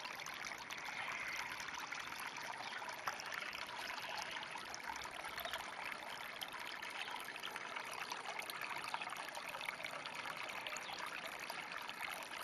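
Steady trickle of water in a flooded rice paddy, with many small ticks and splashes.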